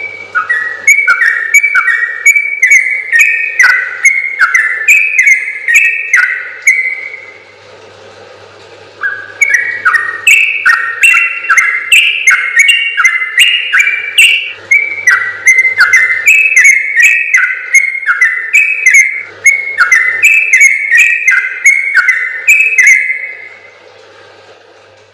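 Yellow-vented bulbul (trucukan) singing a long, rapid run of short, falling whistled notes, about three to four a second. The song pauses for a couple of seconds about a third of the way in, resumes, and fades out near the end.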